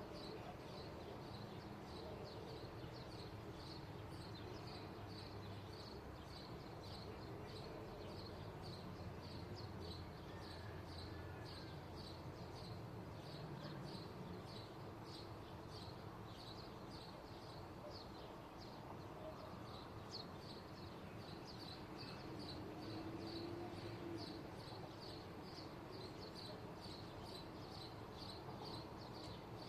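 A small bird chirping over and over, short high chirps at about two a second, over a faint, steady low rumble of background noise.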